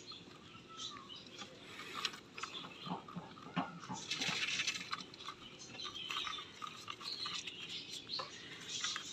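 Rabbits moving about in their hutches: scattered light clicks, scratches and rustles, with a denser stretch of scratching about four seconds in.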